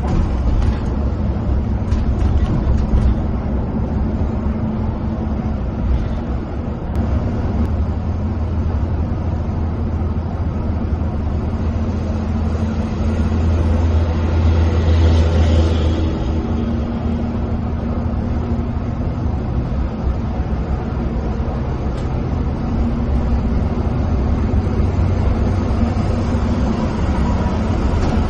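Intercity coach cruising on a highway, heard from inside the cabin: a steady low engine drone mixed with tyre and road noise. The noise swells for a couple of seconds about halfway through, and there are a few faint clicks in the first few seconds.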